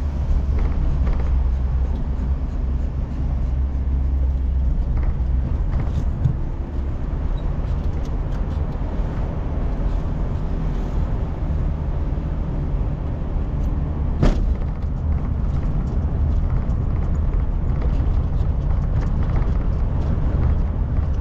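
Car cabin noise while driving: a steady low engine and road rumble with tyre noise. A single sharp click or knock about two-thirds of the way through.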